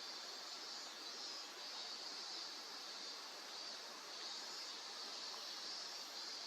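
Steady, even hiss with no distinct events, brightest in the upper range.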